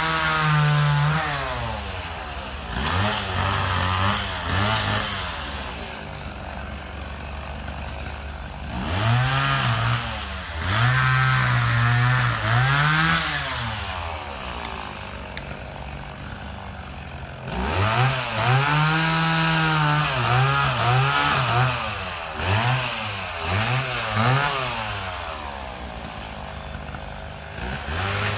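Two-stroke chainsaw working, repeatedly revved to full throttle for stretches of a few seconds and dropping back toward idle in between, as in bucking wood.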